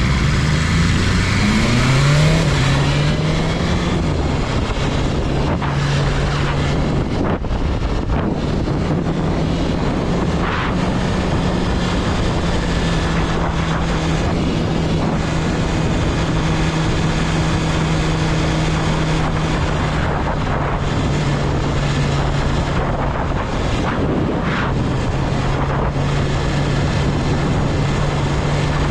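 BMW S1000RR's inline-four engine rising in pitch as it accelerates in the first couple of seconds, then running at a steady cruise. Wind rushes over the microphone throughout.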